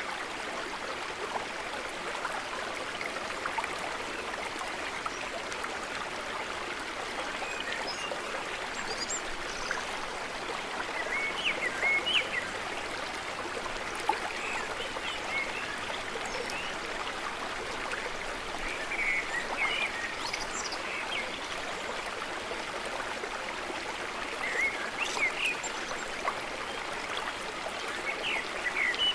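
A stream of water running steadily. Songbirds chirp briefly now and then over it, a few times around the middle and again near the end.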